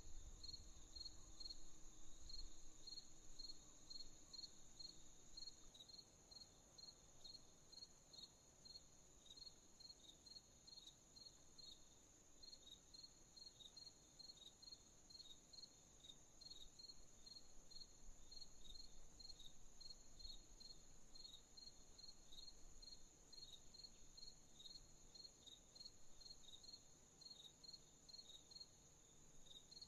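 Crickets chirping at night, an even run of short high chirps at about three a second over a steady, higher insect trill, all faint.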